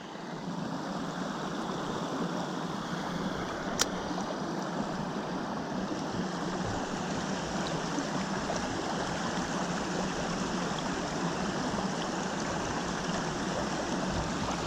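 A small mountain stream's water running steadily over rocks, with one short click about four seconds in.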